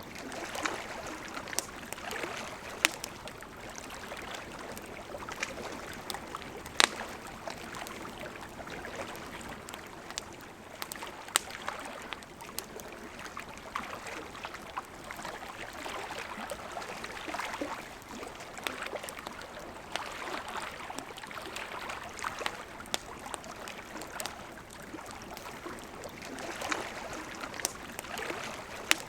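Campfire crackling with scattered sharp pops, over the steady rush of a river.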